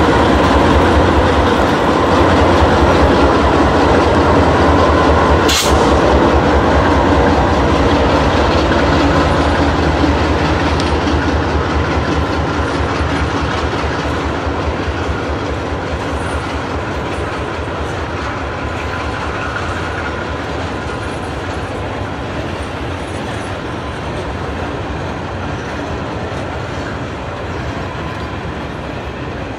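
Train cars rolling past, wheels clicking over the rail joints in a steady rhythm, with one sharp click about five and a half seconds in; the sound slowly fades as the train moves away.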